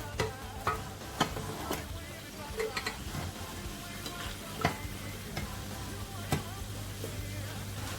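A spoon knocking and scraping against a cooking pot at irregular intervals as fried food is stirred and scooped out, over a faint frying sizzle and a steady low hum.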